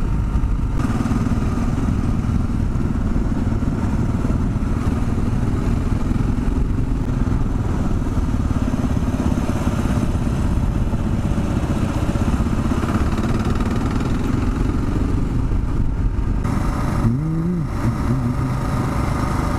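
Kawasaki KLR 650's single-cylinder four-stroke engine running steadily under way. Near the end the revs rise briefly and drop back.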